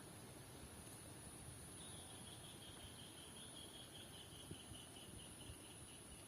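Faint insect sounds: a steady high-pitched buzz, joined about two seconds in by a rapid pulsing chirp trill that drifts slightly down in pitch.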